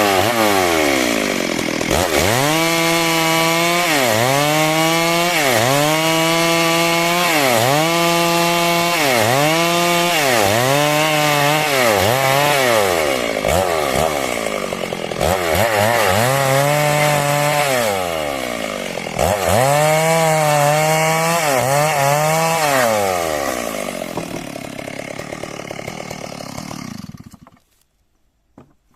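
Stihl MS 382 two-stroke chainsaw cutting wood, ripping a log into a beam; the engine pitch repeatedly dips under load and climbs back about every second and a half. Near the end it fades and stops.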